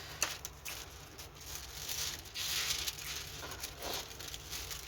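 Rustling and crinkling of a diamond painting canvas being handled, with scattered soft crackles.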